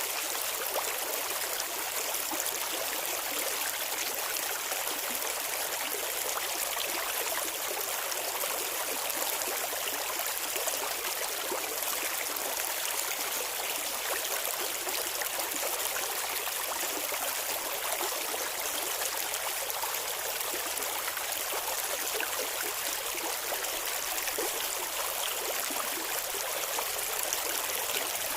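Clear shallow river water flowing and babbling over stones, a steady rushing trickle with no breaks.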